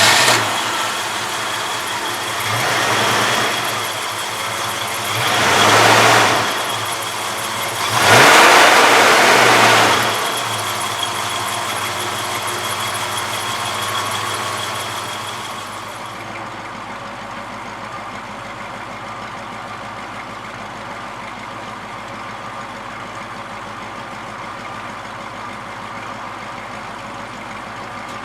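1966 Ford Mustang's 289 V8 engine, just started and idling, revved three times in turn, each rev louder than the last. It then settles to a steady idle that drops lower about halfway through.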